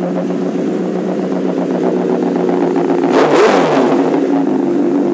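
2010 Honda CBR1000RR's inline-four engine, fitted with an M4 slip-on exhaust, idling steadily. About three seconds in, a quick throttle blip sends the revs up and back down to idle.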